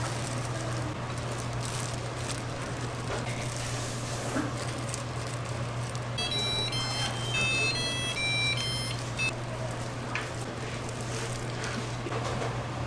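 Kitchen background of a steady low hum and light clatter, with a short electronic melody of quick beeps stepping up and down in pitch about six seconds in, lasting about three seconds.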